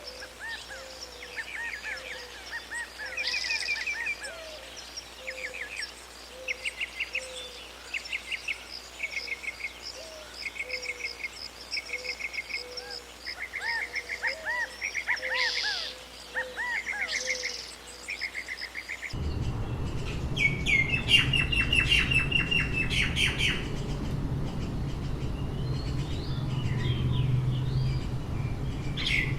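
Several wild birds calling: short trilled phrases repeated every second or so, over a softer repeated low note. About two-thirds of the way through, the sound changes abruptly to a different recording, with a steady low rumble and other bird calls.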